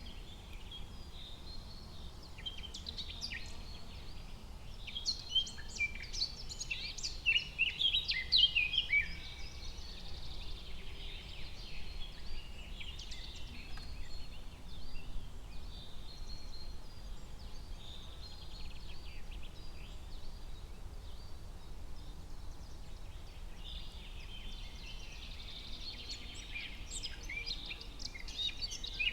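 Forest ambience of many songbirds chirping and trilling, busiest in the first third and again near the end, over a faint steady low background rumble.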